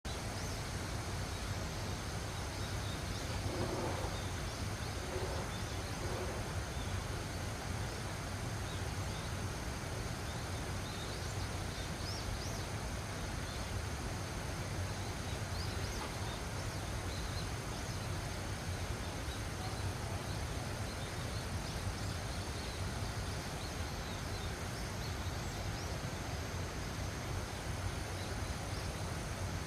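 Steady wind with a low rumble, with small birds chirping in short calls on and off throughout.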